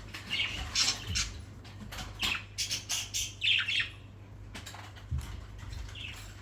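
Small pet parrots chirping and squawking in short, sharp bursts, busiest between about two and four seconds in and quieter after.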